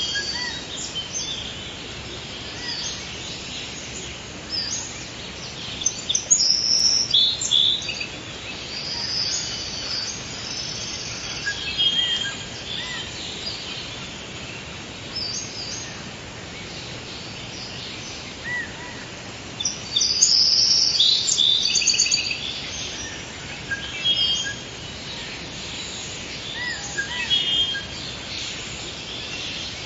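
Forest ambience of several birds singing and chirping over a steady background hiss, with bursts of busier, louder song twice.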